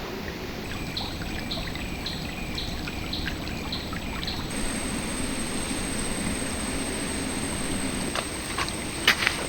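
Shallow river flowing: a steady rush of water. A run of short high chirps, about two a second, sounds over it in the first half, and a few sharp clicks come near the end.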